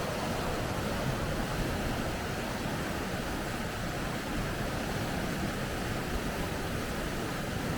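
Water rushing steadily over rapids.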